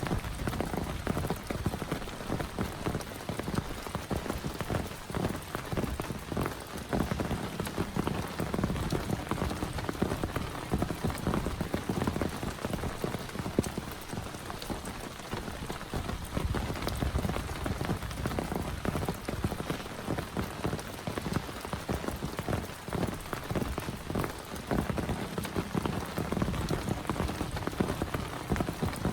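Heavy rain falling steadily, a dense, even mass of individual drops striking a surface.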